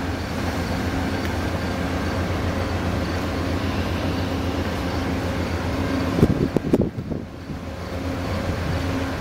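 A standing Amtrak passenger train idling with a steady, droning hum. A few low thumps come about six to seven seconds in.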